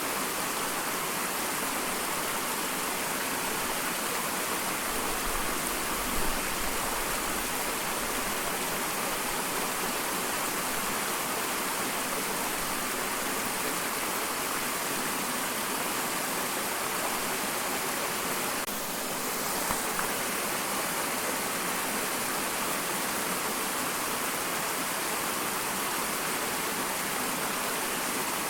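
Small waterfall: a steady rush of falling, splashing water, with a brief low thump about six seconds in.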